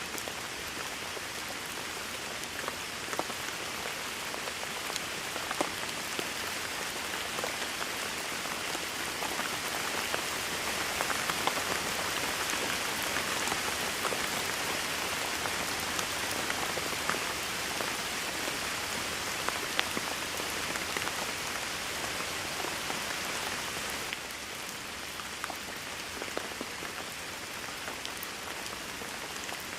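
Rain falling steadily in a dense hiss, with scattered sharper ticks of individual drops striking close by. It swells a little partway through and eases slightly about two-thirds of the way in.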